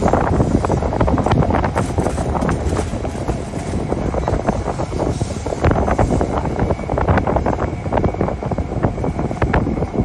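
Train passing below, a loud rumble with many irregular clicks and clacks from the wheels on the rails, with wind buffeting the microphone.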